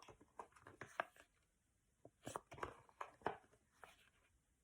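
Near silence: quiet room tone with a few faint, short clicks scattered through it.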